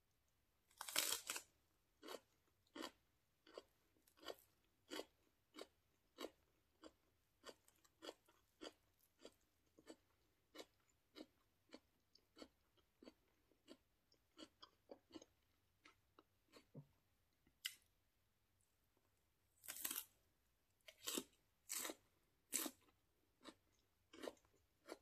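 A person biting into and chewing a raw green vegetable stalk with hummus: a loud crunching bite about a second in, then a steady run of wet crunches, about one and a half a second, fading as the mouthful is chewed down. A second loud bite comes about 20 seconds in, followed by more crunching chews.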